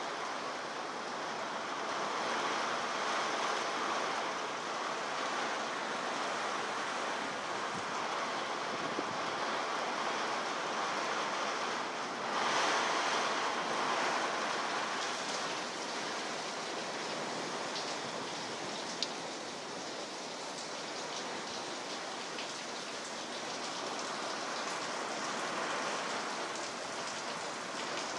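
Very heavy rain pouring down in a steady hiss, swelling louder for a few seconds about halfway through.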